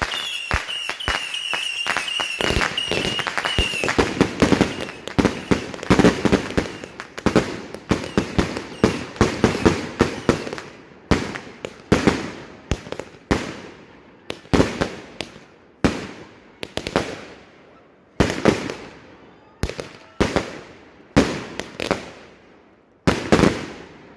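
Fireworks going off: a rapid volley of sharp bangs with a high whistle over the first few seconds, thinning out to single loud reports about one a second, each trailing off in an echo.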